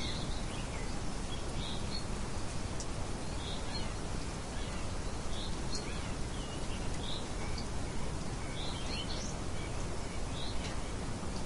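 Small songbirds chirping in short, high notes about once a second over a steady hiss of light wind.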